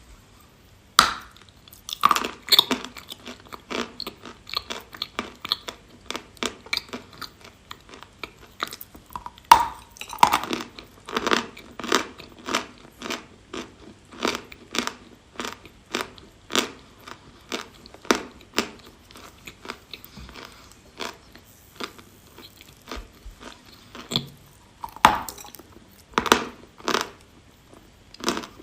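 Dry chalk being bitten and chewed close to the microphone: sharp crunches roughly once or twice a second, with louder bites about a second in, around ten seconds in, and near the end.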